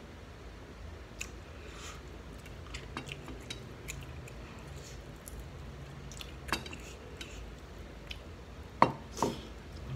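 A person chewing and eating shrimp close to the microphone: scattered small mouth clicks throughout, and two sharp louder clicks about nine seconds in.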